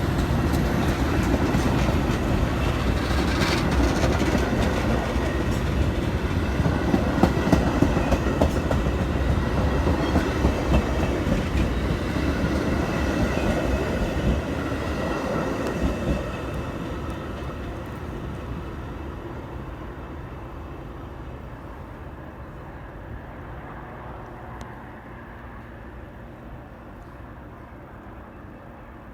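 Metra commuter train passing through the station, wheels clacking over the rail joints. Loud for the first half, then fading away steadily as the train leaves.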